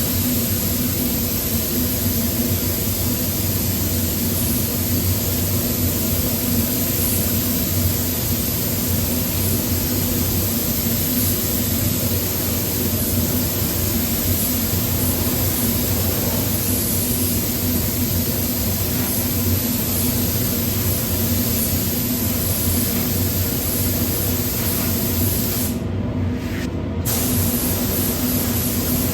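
Paint spray gun hissing steadily as it sprays, cutting off for about a second near the end before starting again, over a steady low hum.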